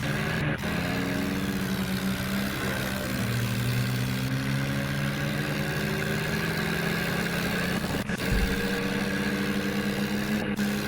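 Tractor diesel engine running steadily, its pitch rising slowly as it speeds up.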